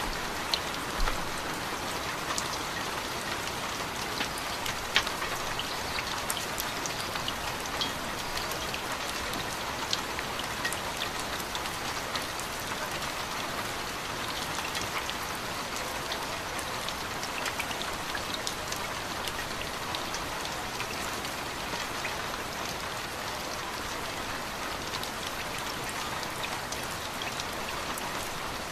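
Steady rain falling: a continuous hiss with scattered sharper drop ticks, a few of them louder near the start and about five seconds in.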